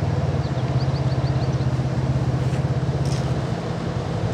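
A motor vehicle's engine idling with a steady low hum. A bird gives a quick run of about seven short rising chirps during the first two seconds.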